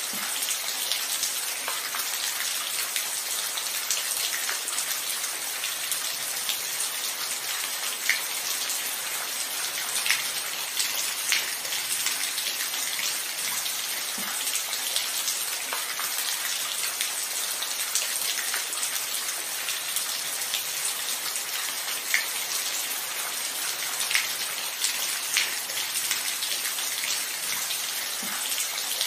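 Steady rainfall: an even hiss with scattered individual drops ticking sharply on a surface.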